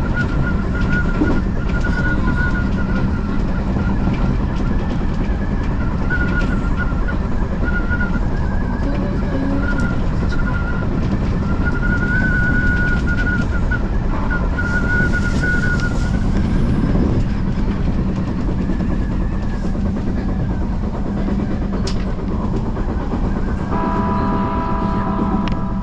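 Odakyu commuter electric train running at speed: a steady rumble of wheels on rail with a wavering high-pitched whine that comes and goes. Near the end a ringing tone of several steady pitches starts up.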